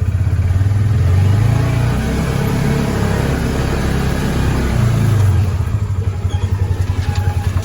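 Polaris Ranger 570 side-by-side's single-cylinder engine revving up about a second in after a shift to low range, pulling under throttle for a few seconds, then easing back to an even, pulsing idle.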